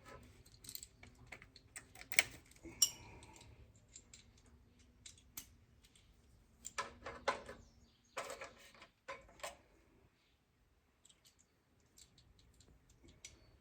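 Irregular light metal clicks and clinks of hand tools and hardware as bolts and nuts are fitted by hand, with short quiet gaps between.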